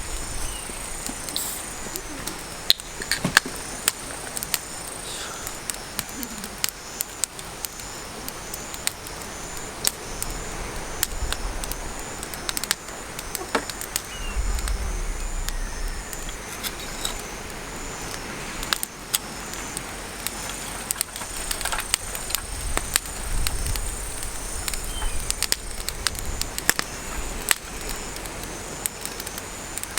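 Kindling catching in a campfire pit, crackling with many sharp, irregular snaps and pops.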